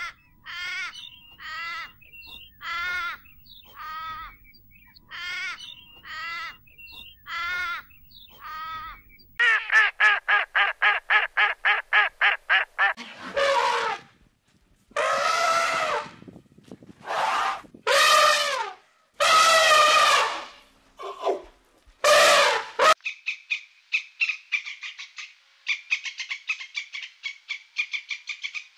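A run of animal calls. First comes a short call repeated about every three-quarters of a second, then a fast pulsing call, then several long, loud elephant trumpets. About two-thirds of the way in, a red squirrel's rapid chattering takes over.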